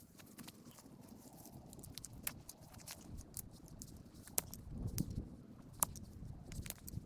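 Scattered light clicks and a few soft thumps, busier near the end.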